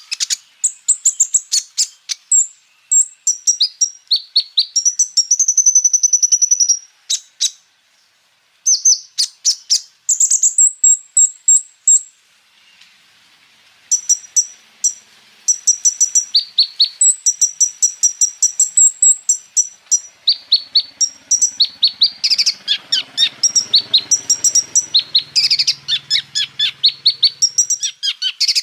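Kolibri ninja (Van Hasselt's sunbird) singing a fast, high-pitched song of rapid chirps and rolling trills, which breaks off for about two seconds near the middle.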